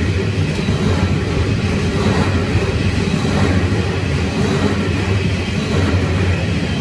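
A freight train's coal hopper wagons rolling past close by: a steady, unbroken run of wheels on rail.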